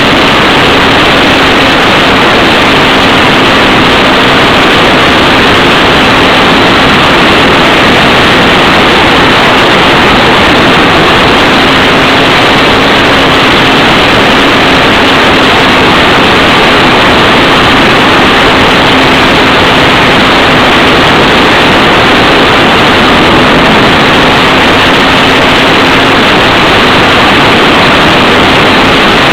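Electric motor and propeller of a ParkZone F4U Corsair RC model plane in flight, heard as a loud, steady rush of wind and propeller noise from a camera carried on the plane, with a faint hum that wavers slightly in pitch.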